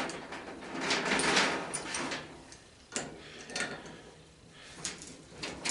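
Metal faucet parts being handled and taken apart by hand: irregular scraping and clinking, with a sharp click about three seconds in.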